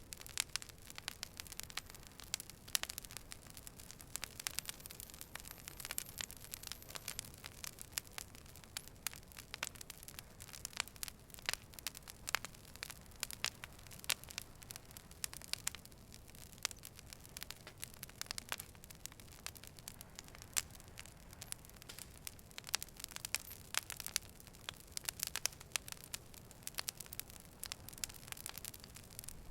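Wood fire burning, with a dense stream of irregular sharp crackles and pops over a faint steady hiss.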